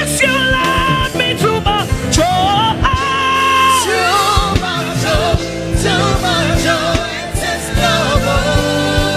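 Live gospel worship music: a woman's voice singing long, gliding, wavering notes over a band with steady bass and drums.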